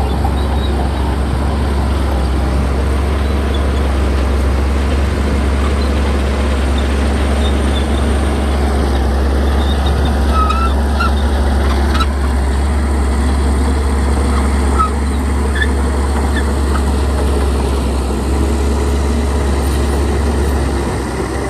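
Heavy diesel earthmoving machinery running steadily with a loud, constant low engine drone, with a few brief high squeaks around the middle.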